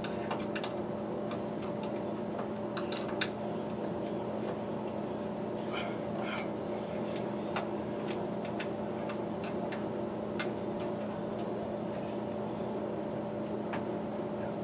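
A steady background hum with scattered light clicks and taps, the small knocks of parts and hand tools being handled, and a couple of brief higher sounds about six seconds in.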